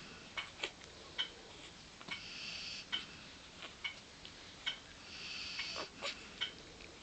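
Five-day-old bull terrier puppies nursing: irregular small wet smacking and sucking clicks, with two longer snuffling breaths.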